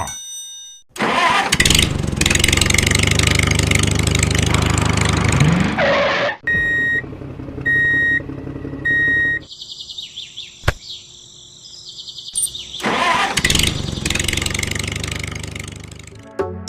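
Engine starting up and running, then three short beeps and a high steady electronic tone, then the engine running again.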